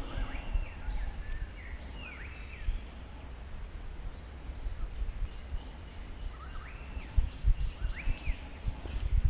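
Birds calling in two short clusters of rising and falling chirps, over a low rumble of wind on the microphone with several dull knocks, loudest near the end.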